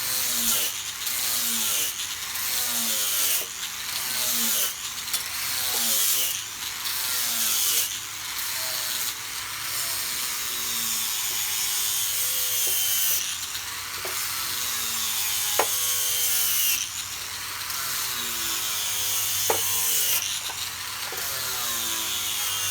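A saw cutting wood in repeated strokes, a little over one a second, with a couple of sharp clicks in the second half.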